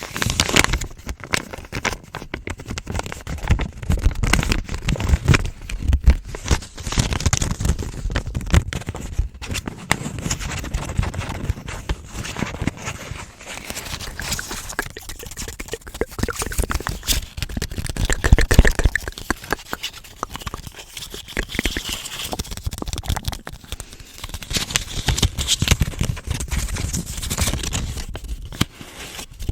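US paper dollar bills being crinkled and rubbed in the hands, an irregular run of crackles and scrapes that keeps going, swelling and easing.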